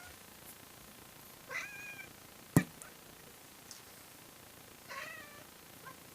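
A domestic cat giving two short meows, one about a second and a half in and another near the end. A single sharp click about midway is the loudest sound.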